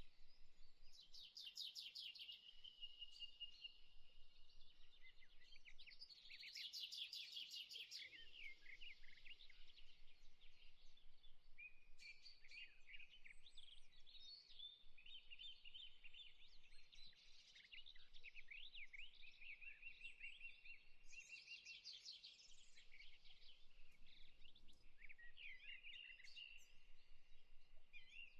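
Faint birdsong: small birds chirping, with bursts of rapid trills now and then, over a soft steady hiss.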